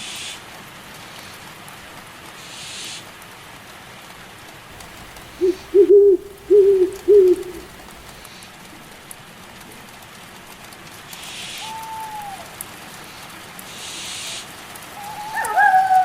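Steady rain falling, with an owl giving a run of four or five low hoots about six seconds in. Near the end wolves start howling in long, falling calls, after a short falling call a few seconds earlier.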